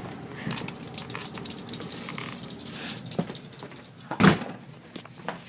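Dogs' paws pattering and scuffling as the dogs come in, with one sharp knock about four seconds in.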